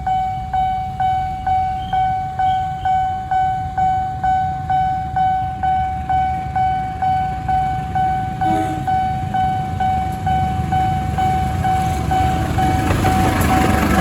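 Railway level-crossing warning bell dinging steadily, about twice a second, over a low rumble. Near the end the noise of an approaching train builds up.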